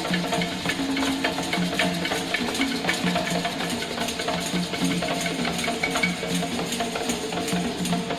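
Late-1960s rock band playing an instrumental passage with no singing: held bass and mid-range notes over a steady beat of drums and percussion.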